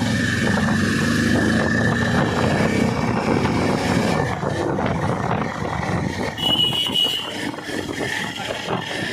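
Yezdi Adventure motorcycle riding along a road: steady engine and wind noise, with a short vehicle horn beep about six and a half seconds in.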